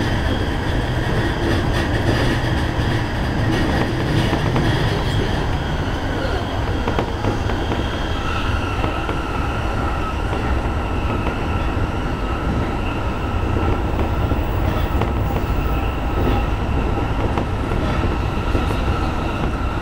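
JR East E233 series electric train running at speed, heard from inside the driver's cab: a steady rumble of wheels on rails, joined about eight seconds in by a steady high whine.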